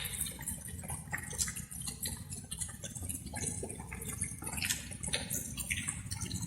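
Light rain with many scattered drops pattering irregularly, over a steady low rumble.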